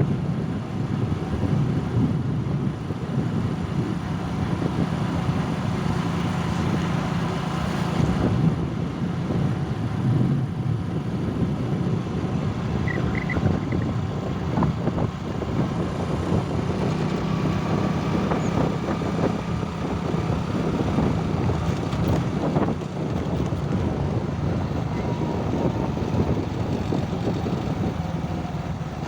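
Road vehicle traffic: a steady engine hum with road noise, with no break.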